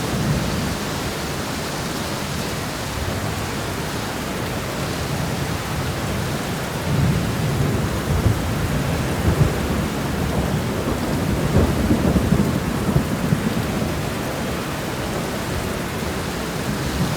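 Steady rain shower falling, with a low rumble that swells from about seven seconds in and eases off a few seconds before the end.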